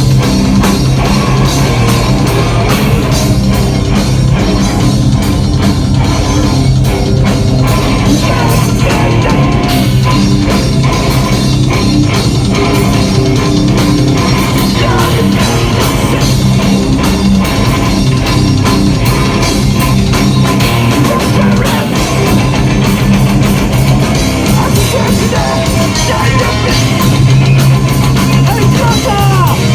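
Heavy rock band playing live, with distorted electric guitars, bass and a drum kit, loud and dense throughout.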